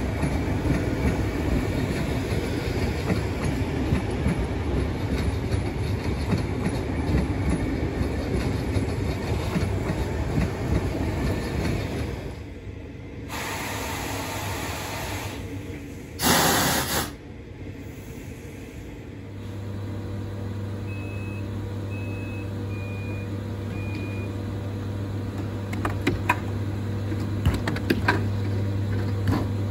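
VR Sm3 Pendolino electric train running past with steady wheel and rail noise for about twelve seconds. After that comes a hiss, a short loud burst of noise, then a steady low hum from the standing train, with four short beeps about a second apart and a few clicks near the end.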